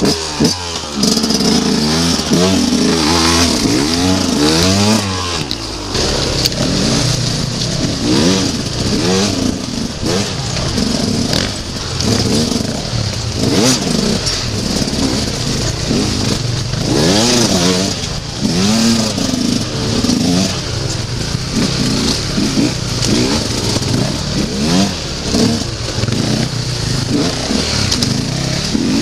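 Enduro dirt bike engine heard from the rider's own bike, revving up and down over and over as it is ridden along a rough trail, its pitch rising and falling every second or so.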